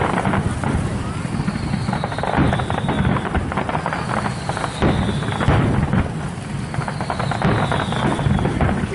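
Fireworks display: a dense run of crackles and pops over a steady rumble, with a few thin whistles that fall slowly in pitch.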